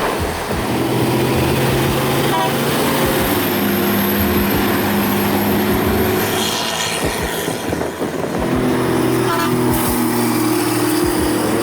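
Large vehicle engine running steadily, its pitch shifting a few times, with a brief drop in level about eight seconds in.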